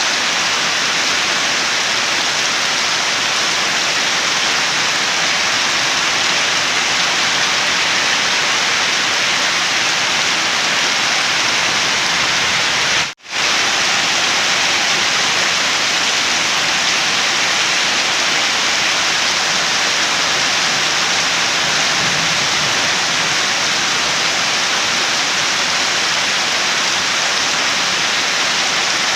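Steady rain, an even hiss of falling water. It cuts out for a split second about halfway through, then resumes unchanged.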